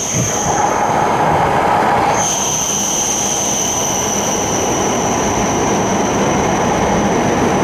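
Shinkansen train running past the platform: dense wheel and rail noise under a steady high-pitched whine, which grows louder about two seconds in.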